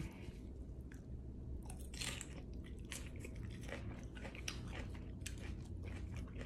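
A person chewing a forkful of lettuce salad: soft, irregular crunches and wet mouth clicks over a low steady hum.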